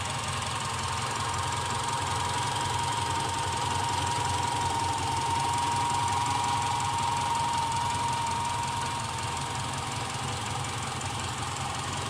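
Subaru Outback's horizontally opposed boxer engine running steadily, with a constant high whine over the engine rumble. It gets slightly louder through the middle and eases back a little near the end.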